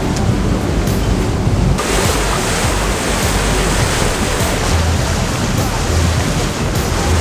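Loud, steady rushing of wind and water on a cruise boat's open deck, with wind buffeting the microphone in low gusts; the hiss grows brighter about two seconds in.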